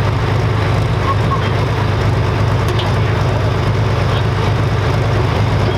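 Dual-fuel pulling tractor's diesel engine running loud and steady at high revs.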